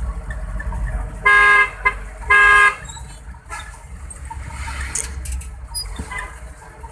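A vehicle horn sounds two short honks about a second apart, over a steady low engine and road rumble.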